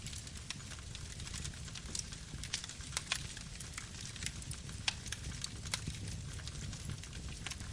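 Wood campfire burning: irregular sharp crackles and pops, several a second, over a steady low rumble and hiss.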